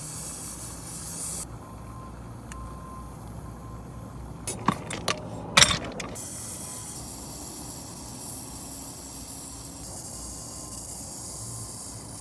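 A high hiss that cuts off about a second and a half in. Then, near the middle, a quick run of four or five sharp metallic clicks and clanks, the last one loudest, over a faint steady background hiss.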